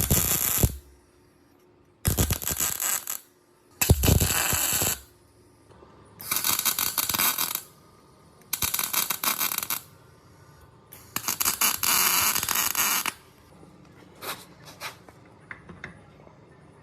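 Harsh, rattling mechanical noise in six bursts of one to two seconds each with short pauses between, then a few faint clicks near the end.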